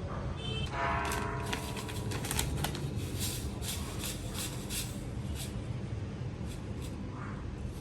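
A run of quick rustling and ticking handling noises, bunched from about one to five seconds in and again near the end, over a steady low rumble.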